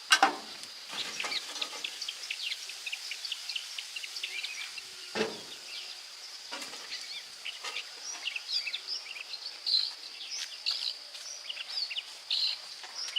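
Birds chirping over a steady high insect drone, with a few single knocks: one right at the start and others about five and six and a half seconds in.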